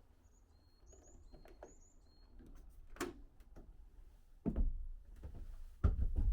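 A small bird calls a few short, high, repeated notes in the first two seconds. Then come a few sharp knocks and heavier thumps, the loudest about four and a half and six seconds in.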